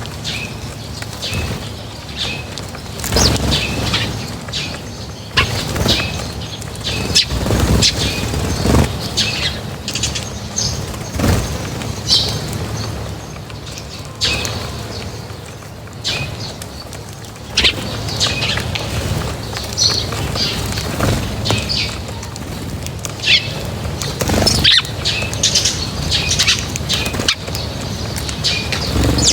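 Small birds feeding, with repeated short flurries of wingbeats and brief high chirps.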